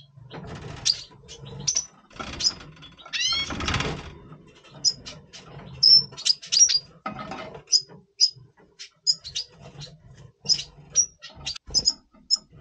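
Red siskins in breeding condition calling: many short, high chirps scattered throughout, with a quick twittering phrase of curved notes about three seconds in. Short rustling sounds come in the first few seconds, over a low steady hum.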